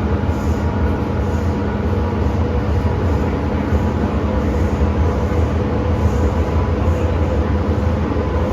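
MTR M-train metro train running at steady speed: an even rumble of wheels on the track with a faint, steady whine over it.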